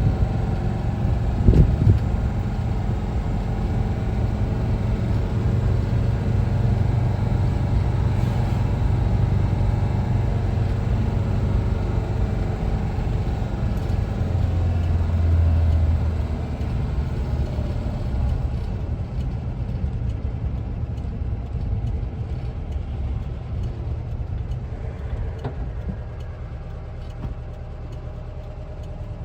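1974 Volkswagen Westfalia camper's air-cooled Type 4 flat-four engine running steadily while driving, with a short knock about a second and a half in. The engine grows quieter over the second half as it eases off.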